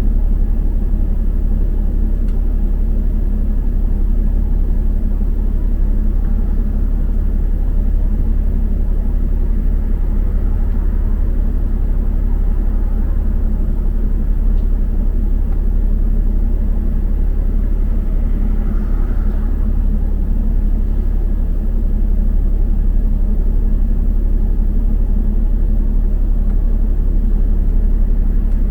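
Steady low rumble of a double-decker bus under way, its engine and road noise heard from inside the cabin.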